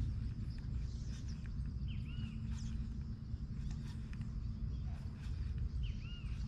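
Outdoor ambience over still water: a steady low rumble with scattered faint clicks, and a bird giving a short rising-and-falling call twice, about two seconds in and again near the end.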